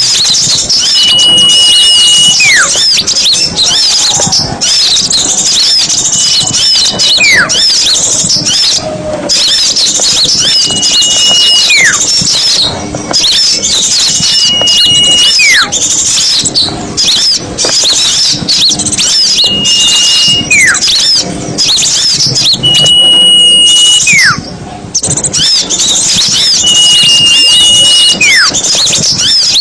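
Dense, continuous chorus of many small songbirds chattering and twittering, the noisy flock sound used as a lure for small birds. About every four seconds a clear whistled call stands out: a held high note that drops away in a falling slide, seven times in all.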